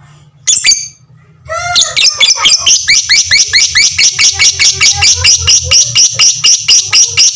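Lovebird ngekek: one short sharp call, then about a second and a half in a long, fast, even run of sharp chattering chirps, about six a second, that keeps going.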